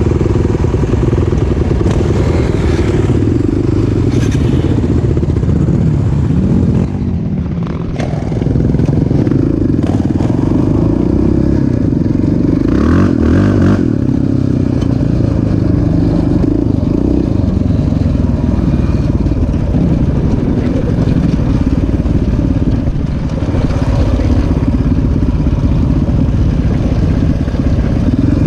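Single-cylinder off-road engine of a motocross bike or sport quad running under throttle, its revs rising and falling, with brief throttle-offs about seven seconds in and again near twenty-three seconds.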